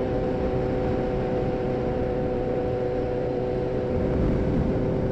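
Motorcycle running at a steady cruising speed, its engine drone mixed with wind rushing over the helmet-mounted microphone.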